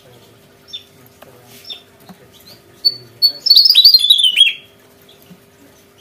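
Javan tesia singing: a few short, faint high calls, then about three and a half seconds in a loud burst of about a second of fast, jumbled song with rapidly falling notes.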